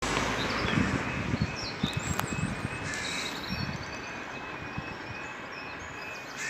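Small birds chirping and singing in short repeated phrases, over low irregular rumbling and knocks that are heaviest in the first couple of seconds.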